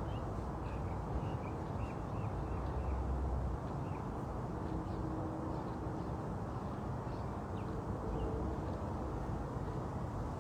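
Outdoor ambience: a steady low rumble of background noise, heavier in the first few seconds, with small birds chirping briefly now and then.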